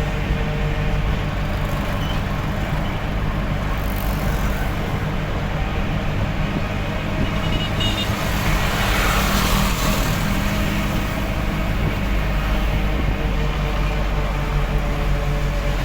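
Delivery truck's engine running steadily under way, with road noise. A rush of noise swells and fades about halfway through.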